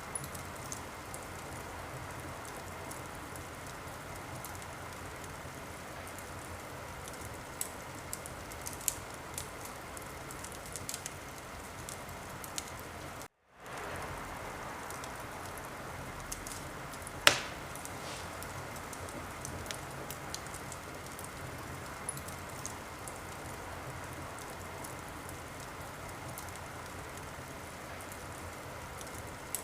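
Wood fire crackling in a fireplace: a steady hiss with scattered small pops and one sharp, much louder pop a bit past the middle. The sound cuts out for a moment shortly before that pop.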